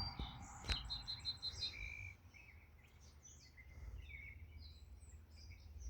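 Faint morning ambience of scattered songbird chirps and short whistled notes over a low steady rumble, with a single sharp click about two-thirds of a second in.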